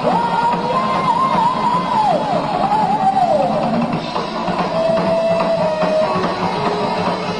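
Live heavy rock band with a lead electric guitar playing bent, wavering notes over drums and rhythm guitar. The lead ends on a long held note a little past the middle.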